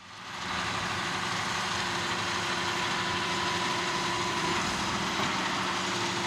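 John Deere 6155M tractor's diesel engine idling steadily, fading in over the first second.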